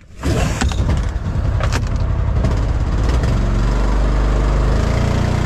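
Mokai jet-powered kayak's small gas engine running, with its jet pump intake freshly cleared of seaweed. The sound starts suddenly and settles into a steady drone about three seconds in.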